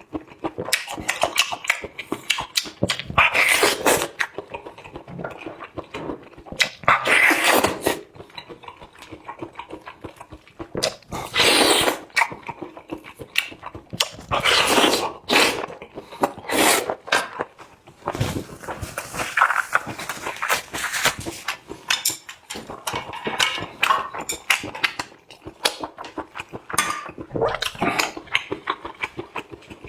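Close-up eating sounds: wet chewing and slurping in irregular bursts, one every second or so.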